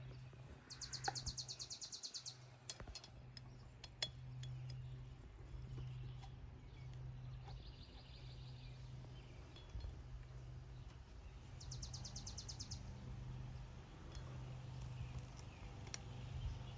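Faint, scattered metallic clinks of tools and engine parts being handled during a pit-bike top-end rebuild, over a steady low hum. Three short, rapid high trills, like a bird's, come about a second in, near the middle and about two thirds of the way through.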